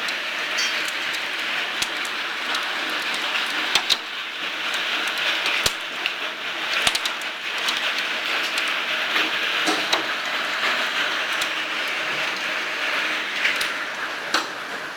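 Hail and rain pelting down in a steady hiss, with sharp clicks of individual hailstones striking every second or two.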